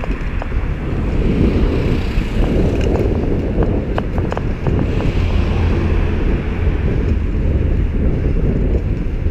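Wind buffeting the microphone of a moving bicycle, a steady low rumble with road traffic noise beneath it. A few light clicks come between about three and four and a half seconds in.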